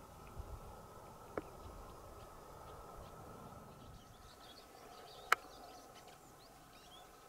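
Faint high chirps of small birds, starting about four seconds in, over a quiet outdoor background. Two sharp clicks cut through, a small one a little over a second in and a louder one about five seconds in.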